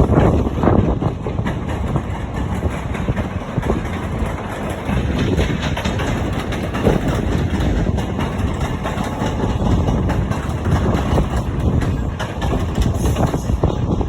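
Diesel train engine idling with a steady low rumble, mixed with wind gusting on the microphone.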